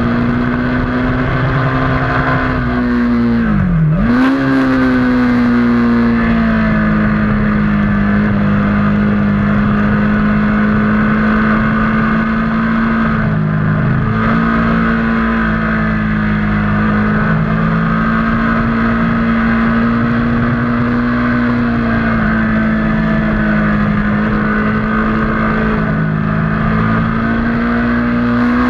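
Motorcycle engine running hard at steady high revs, heard on board. About four seconds in the note drops sharply in pitch and then climbs straight back up, as the throttle is rolled off and opened again.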